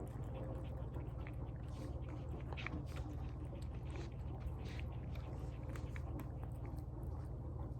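A pet eating tuna from a bowl: wet chewing and lip-smacking, many small irregular clicks, over a steady low hum.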